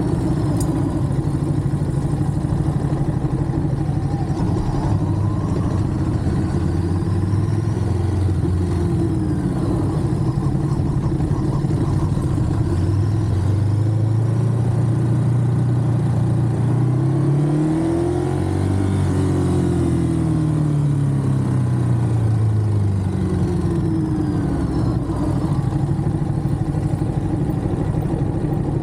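Ducati Monster's V-twin engine running under way, its pitch climbing steadily to a peak about two-thirds of the way through and then falling back as the bike accelerates and slows, with smaller rises and falls before and after.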